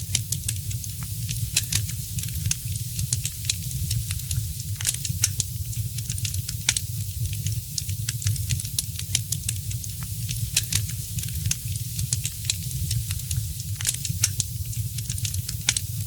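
Wood fire crackling: frequent, irregular sharp pops and snaps over a steady hiss and a low rumble.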